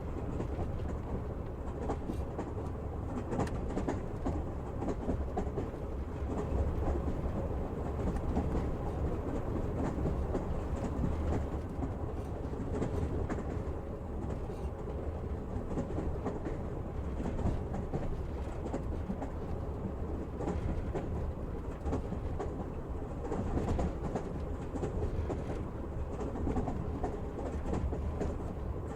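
Train wheels running on the rails: a steady low rumble with scattered short clicks from the track.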